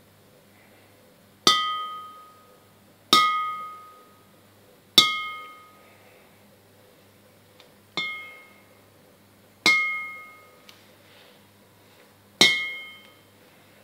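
An antique object tapped six times to test its ring; each tap gives a clear, bell-like ring of a few steady pitches that dies away within about a second.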